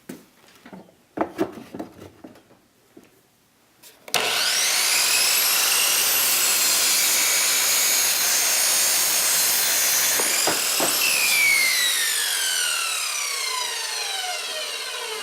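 Electric power saw starting up about four seconds in with a quickly rising whine, running at speed for about six seconds while cutting a 2x4, then spinning down with a long falling whine. Before it starts, a few light knocks and clicks of handling the wood and saw.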